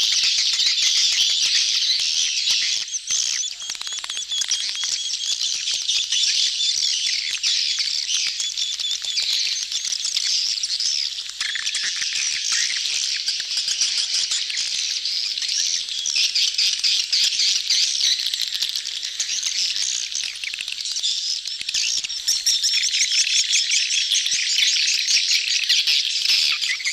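A dense crowd of swiftlets giving rapid, overlapping twittering and chittering calls in mating chatter. It is a swiftlet lure-call recording meant to attract birds to a nesting house.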